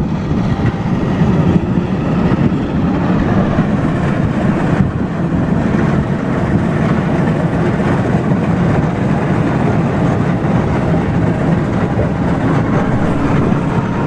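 Steam traction engine running: a loud, steady mechanical noise, heaviest in the low range.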